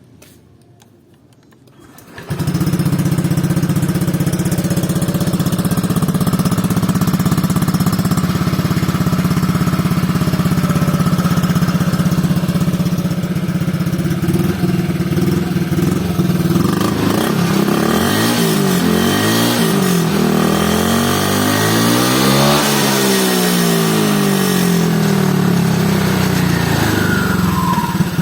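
Honda Vario 150 scooter's single-cylinder four-stroke engine, breathing through a Suzuki Satria FU silencer, starts about two seconds in and idles steadily. In the second half it is given a run of quick throttle blips, the pitch rising and falling repeatedly, then it drops back to idle.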